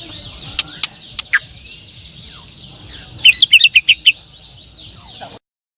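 Several white-rumped shamas (murai batu) singing at once in a dense chorus of chirps and whistles. Loud, sharp, rapid notes come between about three and four seconds in. The sound cuts off suddenly near the end.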